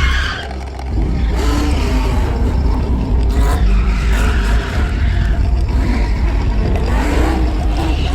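Car engines revving hard over a heavy, steady rumble, with pitch sweeps near the start and again near the end, mixed with tyre noise from drifting.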